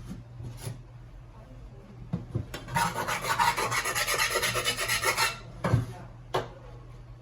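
A rapid rasping scrape lasting about two and a half seconds, with a few light knocks before and after it.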